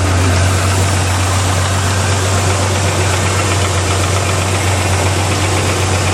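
1987 Chevy S10 pickup's engine idling steadily under the open hood, with a constant low drone.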